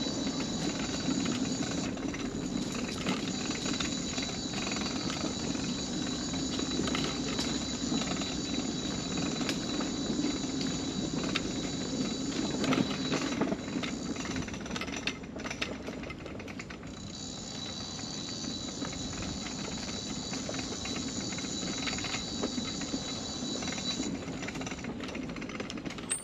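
Mobility scooter rolling along a wooden boardwalk: a rapid rattling clatter of the wheels over the planks, with a steady low hum and a high-pitched electric motor whine that drops out for a few seconds around the middle and then returns.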